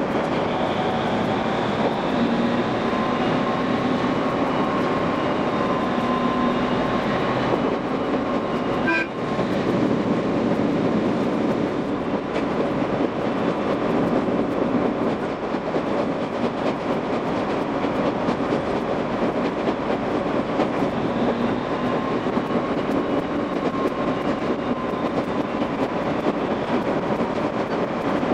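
A local train running on the line: a steady wheel-and-track rumble with fine clicking and a faint drifting whine, and a short break in the noise about nine seconds in.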